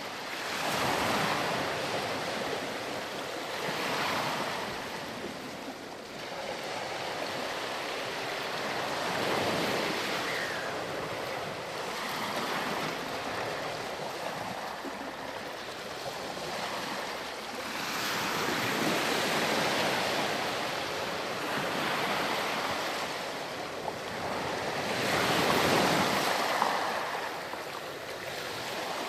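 Ocean waves breaking and washing up a sandy beach, the surf swelling and ebbing every few seconds in an even hiss, loudest about a second in and again near the end.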